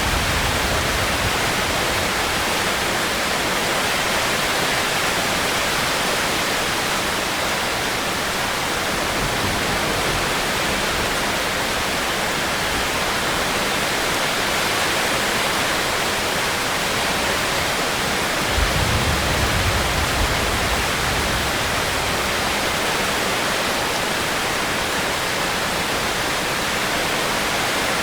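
Rainstorm rain falling steadily, an even hiss, with a brief low rumble about two-thirds of the way through.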